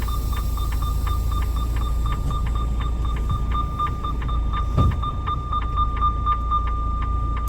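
Electronic warning beeper sounding rapidly and evenly, about four high beeps a second, over a steady low engine rumble, with a single low thump about halfway through.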